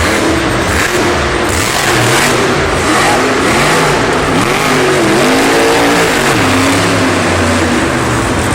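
Monster truck engine revving up and down over a dense, steady wash of noise. The pitch swings most widely around the middle.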